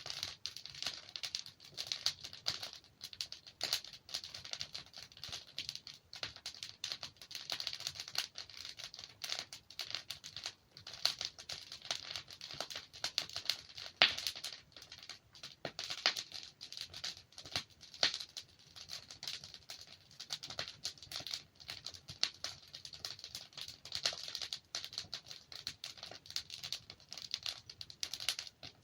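Wood fire burning: logs crackling and popping with a dense, irregular stream of sharp snaps.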